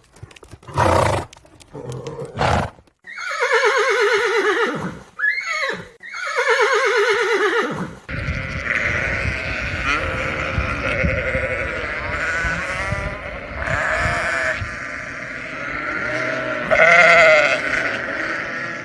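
Farm animals calling: a few sharp knocks, then two long wavering calls, followed by a run of overlapping calls.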